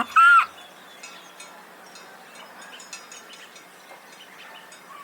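Donkey braying: the last hee-haw ends about half a second in. After it there is only a faint background with scattered small chirps and ticks.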